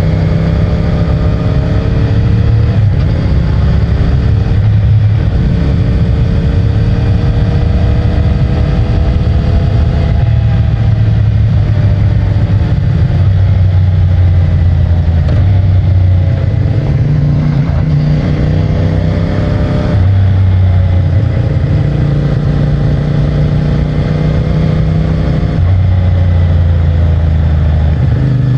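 CFMOTO 450MT's parallel-twin engine through its stock exhaust, pulling under way. The note climbs and then drops every few seconds with throttle and gear changes.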